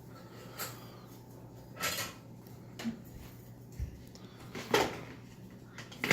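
Dishes and cutlery clinking and clattering as a dishwasher is unloaded: about six separate knocks and clinks, the loudest a little under five seconds in.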